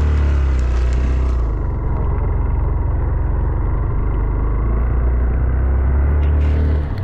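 Motorcycle engine running steadily, a loud low rumble; the higher part of the sound drops away about a second and a half in and comes back near the end, so the engine sounds muffled in between.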